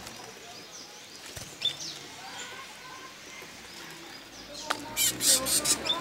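Faint, scattered bird chirps, then a cluster of loud rustling crackles about five seconds in.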